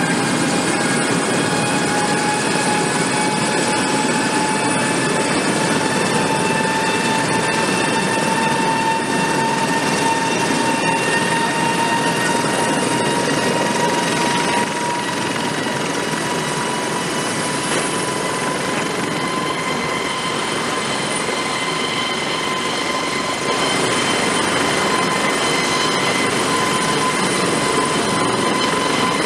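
Eurocopter AS365 Dauphin helicopter running: steady rotor and turbine noise with a high whine that slowly rises in pitch, a little quieter for several seconds in the middle.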